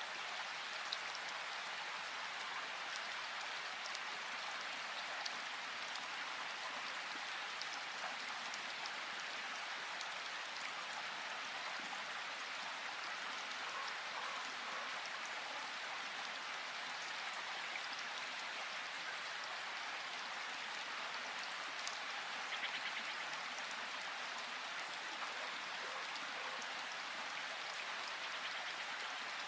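Steady rushing of flowing river water, with scattered small splashes and drips over the constant hiss.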